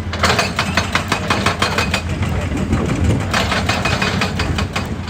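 Hitachi EX200 excavator's diesel engine running steadily under a rapid hammering: two runs of fast, even blows, the first over about two seconds and the second starting about three seconds in, typical of a hydraulic breaker pounding rock.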